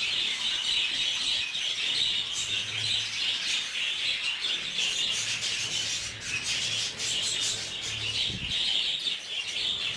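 A flock of budgerigars chattering and chirping continuously, a dense, steady warble. There is a short dull bump about eight seconds in.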